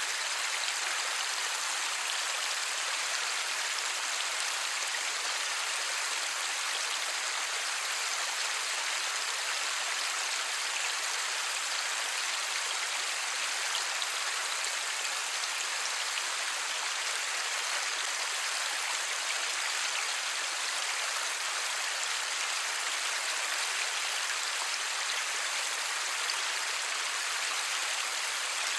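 Steady light rain falling, with no thunder: an even hiss of many small drops that holds level throughout.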